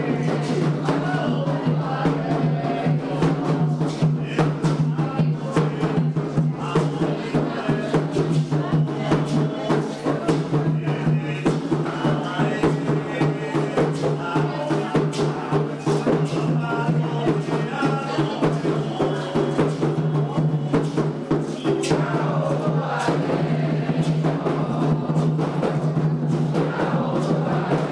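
Candomblé ritual music: atabaque hand drums struck in a steady, fast rhythm while voices sing chants for Xangô, with a steady low hum underneath.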